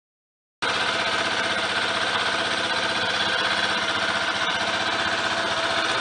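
Motorcycle engine idling steadily, cutting in abruptly about half a second in.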